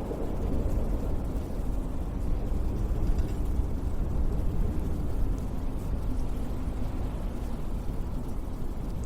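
Strong winter wind blowing steadily, a deep rumbling rush with no pauses.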